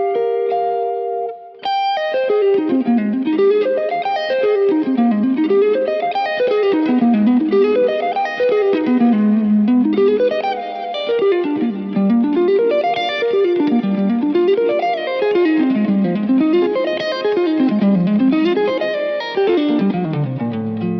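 Vola OZ V3 MC electric guitar played solo. A few held notes open it, then fast runs sweep down and back up in repeated waves, about one every two seconds, before settling onto lower notes near the end.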